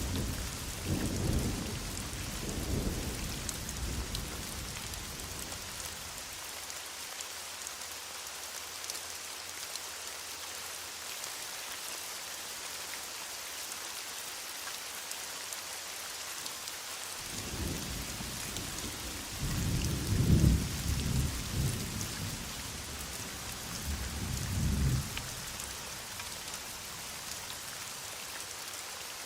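Heavy rain falling steadily, with thunder in two spells: one fading out in the first few seconds, and a second that rolls in about halfway through, peaks shortly after and dies away a few seconds before the end.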